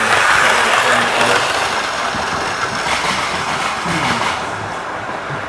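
Model train running along the track of a home layout: a steady rolling rumble of wheels on rail and the motor's hum, loudest in the first second and swelling again about three seconds in.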